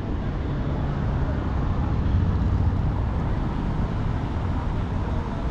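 Steady low rumble of city traffic with engines running, no single event standing out.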